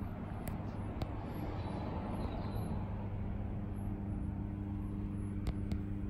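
A car engine idling steadily, a low even hum, with a few light clicks about half a second and a second in and again near the end.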